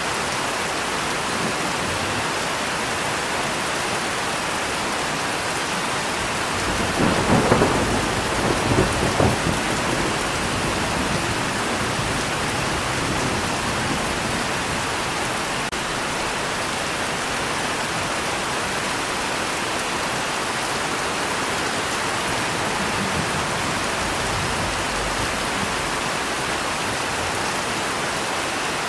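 Steady heavy rain with a roll of thunder rumbling and crackling about seven seconds in, fading out over the next few seconds.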